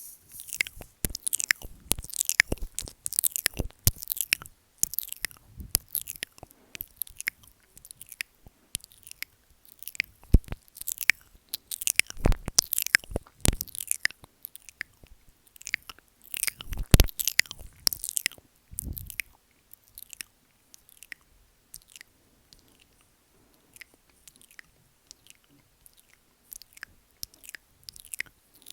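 Close-miked wet mouth sounds: a person licking and nibbling a microphone, with irregular wet clicks and smacks. They thin out to a few faint ones after about twenty seconds.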